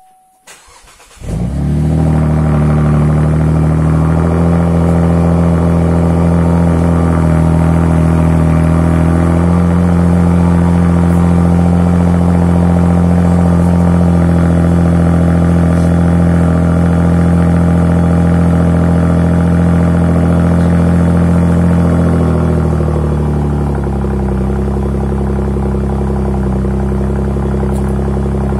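Opel Insignia OPC's 2.8-litre turbocharged V6 starting, catching about a second in, then idling steadily through its exhaust. About 22 seconds in the idle speed drops a little and settles lower.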